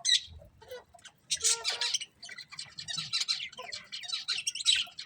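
Budgies chirping and chattering: a busy run of short, high twittering calls, with a brief pause about a second in before the chatter picks up again.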